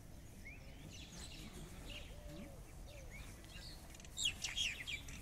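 Birds chirping and calling, with a louder flurry of quick chirps about four seconds in, over a low steady background rumble.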